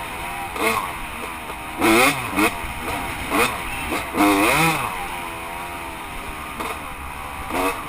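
Dirt bike engine running and revved in a series of short throttle blips, its pitch rising and falling with each, the longest surge about four seconds in.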